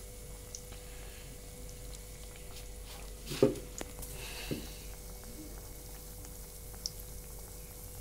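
Arbi-leaf and urad dal vadas deep-frying in hot oil in a kadhai, a faint steady sizzle. About three and a half seconds in there is a brief knock, with a smaller one a second later.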